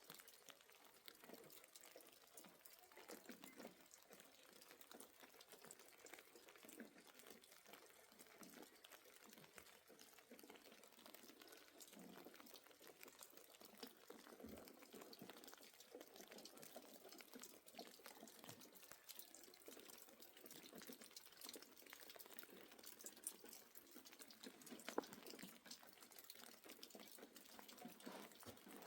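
Near silence with faint trickling and dripping of water and scattered small ticks.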